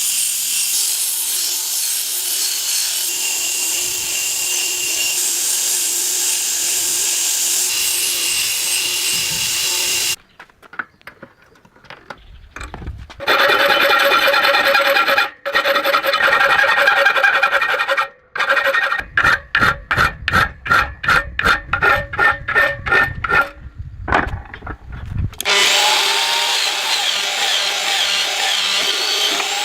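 Tool rasping on a knife in the workshop: a steady scraping hiss, then, after a short break, a run of quick back-and-forth strokes at about four a second, then the steady scraping again.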